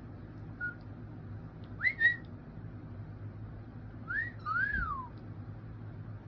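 Pet cockatiels whistling in short bursts: a brief note, then two quick rising whistles about two seconds in (the loudest), and a rising note followed by a rise-and-fall glide about four seconds in. A low steady hum runs underneath.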